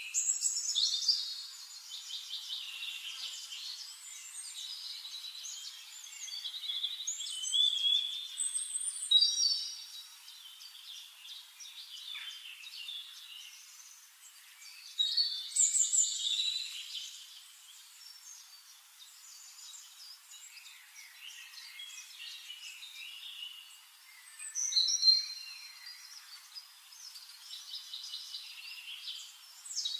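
Birds singing and chirping: a mix of short warbled and trilled phrases, swelling into louder bouts of song every several seconds. The sound is thin, with no low end at all.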